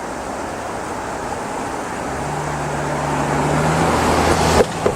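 Road traffic on a highway: a vehicle approaching, its tyre noise rising steadily, with a low engine hum coming in about halfway through and growing louder.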